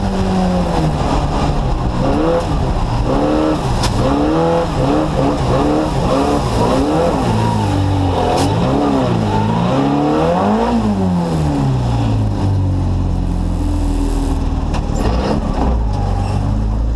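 Fiat 133's small rear-mounted four-cylinder engine heard from inside the caged cabin, revving up and dropping back again and again as the driver works the throttle and gears, with a couple of sharp knocks along the way. About 11 seconds in the revs fall away and it settles to a low steady run.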